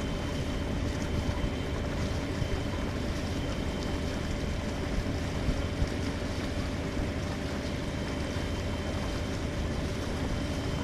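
Boat motor running steadily under way, a continuous low drone with a faint steady whine above it.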